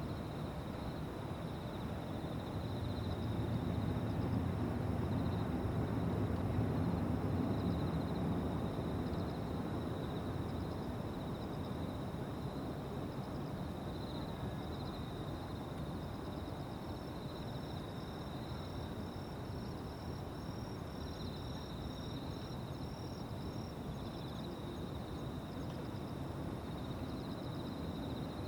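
Insects calling in a steady, high-pitched pulsing trill, with a second, higher insect trill joining about halfway through, over a soft outdoor noise bed. A low rumble swells and fades in the first third, as of a jet airliner passing in the distance.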